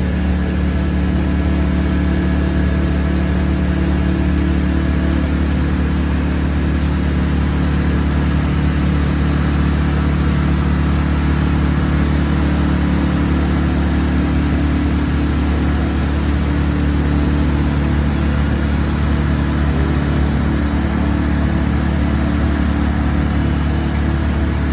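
Crane's heavy engine running steadily at a constant speed, a deep, even drone with no revving.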